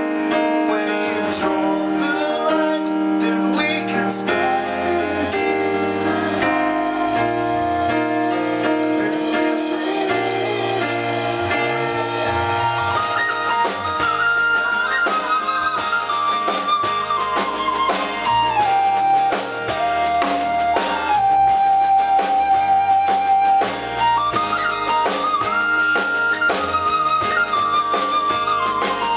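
Rock band playing an instrumental passage on drum kit, bass, keyboards and electric guitar. Over the second half a sustained lead melody with vibrato moves in steps above the band.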